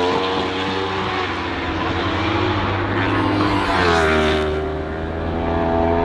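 Racing superbike engines running at high revs. About four seconds in, one engine's pitch falls sharply, as with a bike passing close or shutting off and changing down.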